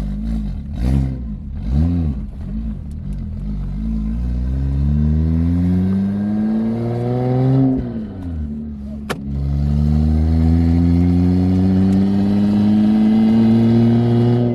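Built BMW N54 3.0-litre straight-six, converted to a single turbo, pulling away: the revs rise and fall a few times as the clutch takes up. It then accelerates steadily, drops in pitch at a gear change about eight seconds in, and climbs again in the next gear.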